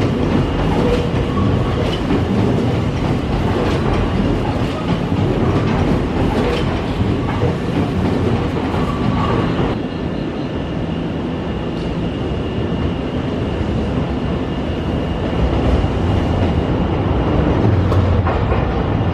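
Nankai electric train moving along the platform, its wheels clicking over rail joints and points under a steady rumble of running noise.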